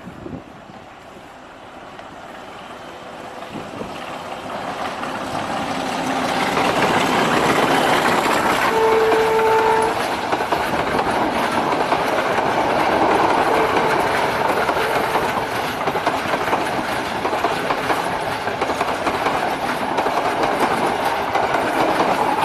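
Diesel-locomotive-hauled express train running toward and past the listener, its engine and wheels growing louder over the first several seconds. About nine seconds in the locomotive's horn sounds once for about a second. The loud rumble and clickety-clack of the carriages then continue.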